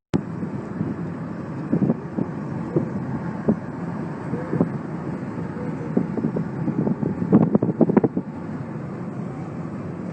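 Steady background rumble with wind noise on the microphone, and a few short knocks about seven and a half seconds in.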